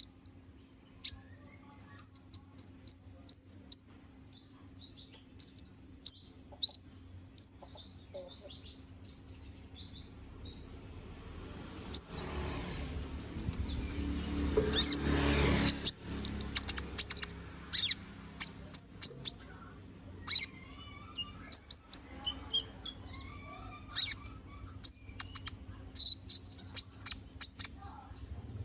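Olive-backed sunbird (konin) singing: a fast run of short, high, sharp chirps and trills, repeated throughout. About halfway through, a rushing noise swells and fades under the song, and a faint steady hum runs beneath.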